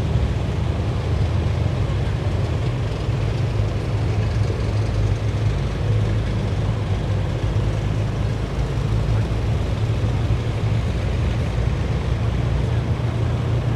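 Heavy military vehicles driving past in a column, their engines making a steady low drone over continuous road noise.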